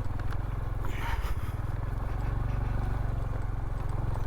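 Honda CT125's single-cylinder four-stroke engine running steadily at low speed on a bumpy trail, with a few knocks as the loaded bike bounces over roots, one about a second in.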